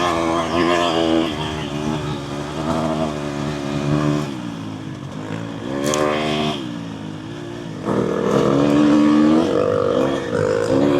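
Dirt bike engine running under changing throttle while trail riding, its pitch repeatedly rising and falling as the rider accelerates, shifts and backs off, getting louder again about eight seconds in.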